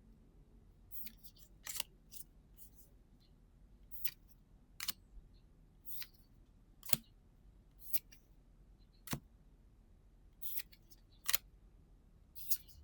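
Trading cards being flicked and slid off the pile one at a time while a booster pack is sorted, making a crisp card snap about once a second, a dozen in all.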